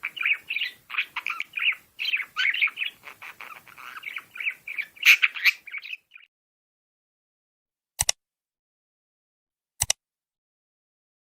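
Small caged parrots chattering with rapid chirps and squawks, stopping abruptly about six seconds in. Two short sharp clicks follow, the second about two seconds after the first.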